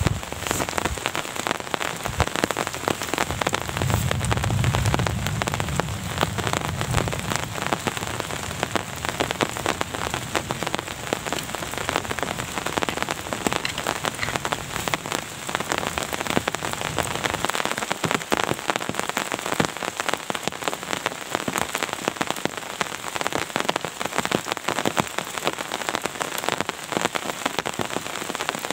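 Heavy rain falling, its drops hitting thickly and steadily. A low rumble swells about four seconds in and fades away over the next dozen seconds.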